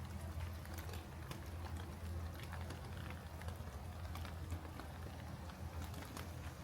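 Steady rain, with many irregular sharp drop ticks over a low, even rumble.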